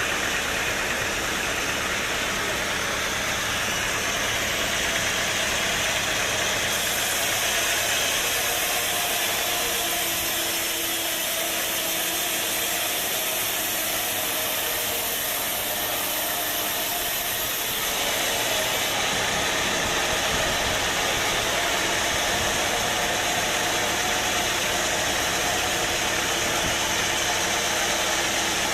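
Sawmill machinery running steadily with a loud, noisy drone. Its sound changes about seven seconds in, and changes back about eighteen seconds in.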